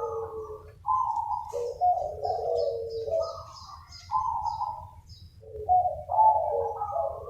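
Several zebra doves cooing in overlapping phrases, answering one another, with a short lull about five seconds in.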